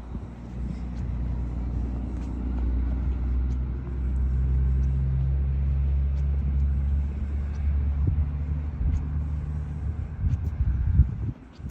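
A motor vehicle engine's low rumble that builds over the first few seconds, holds steady, then fades away near the end.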